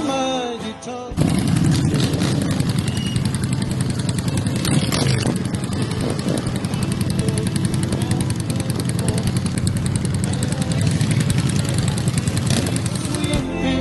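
Motorcycle engine running with a fast, even pulsing exhaust beat, steady throughout. A short stretch of music ends about a second in, and music returns at the very end.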